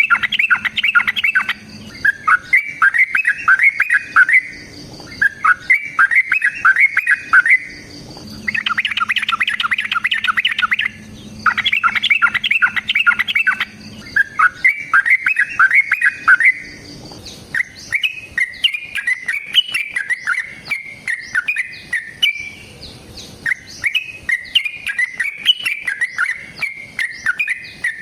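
Yellow-vented bulbul (trucukan) singing in fast, chattering phrases of rapid chirps, each lasting two to three seconds with short pauses between, becoming a looser, more varied warble in the second half.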